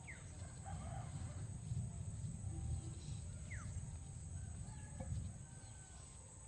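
Chickens calling, with two short falling calls, over a low rumble.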